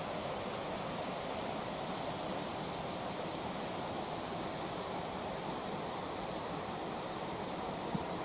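A creek running: a steady, even rush of flowing water, with a faint click near the end.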